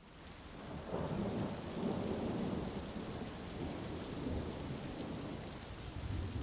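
Heavy rain falling steadily with a low rolling rumble of thunder, fading in over the first second.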